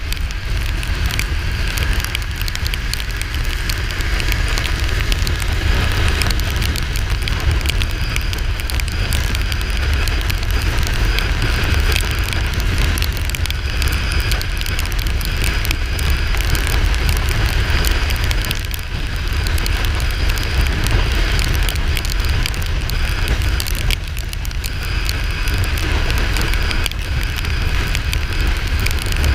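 Wind rushing over a helmet or bike-mounted microphone while riding a Kawasaki Ninja 400, with the low rumble of its parallel-twin engine and tyres underneath. The noise is steady and crackly, dipping briefly a few times.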